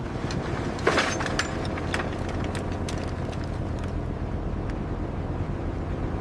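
Steady low mechanical hum with a sharp knock about a second in, followed by scattered light clicks.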